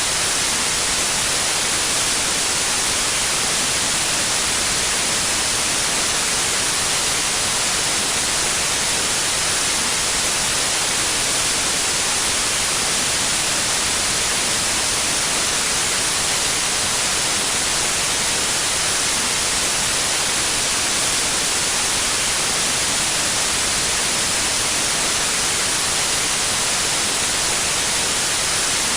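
Steady, unchanging white noise: an even hiss, brightest in the high range, with no pitch or rhythm.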